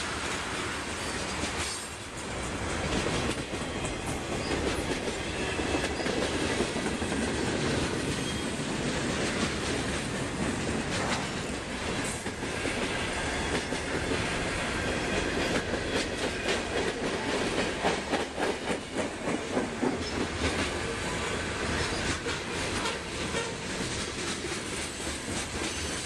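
A freight train rolling past at speed, steel wheels clicking and clacking over the rail joints above a steady rumble of cars.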